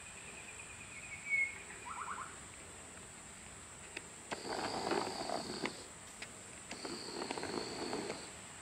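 Bush birds calling over a steady high insect drone. There is a short high whistle ending in a bright chirp about a second in, and a quick trill just after. Then come two longer harsh calls in the second half, each with a thin high whistle on top.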